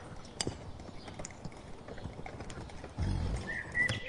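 Horse hooves clip-clopping as scattered light clicks, with a dull thump about three seconds in and a short high chirp near the end.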